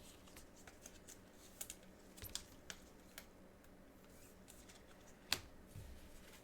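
Faint, scattered clicks and scrapes of trading cards being handled, with one sharper click a little over five seconds in.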